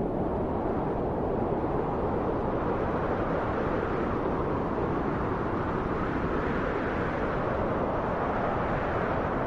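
Steady rushing wind, a low, even noise that swells and eases gently a couple of times.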